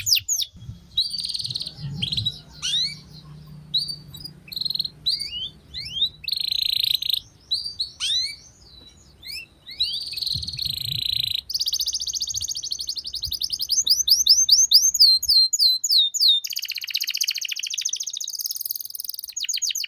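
Domestic canary singing a varied song of rapid trills, buzzy rolls and quick falling whistled notes, in phrases broken by short pauses.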